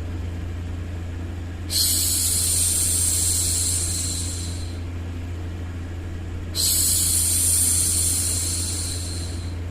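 A woman shushing a baby, two long "shhh" sounds about five seconds apart. Each starts suddenly and fades away, over a steady low hum of white noise.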